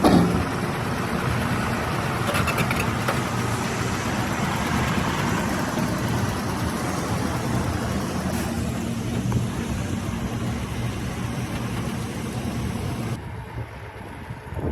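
Excavator's diesel engine running steadily with a low hum. Near the end the sound drops off suddenly.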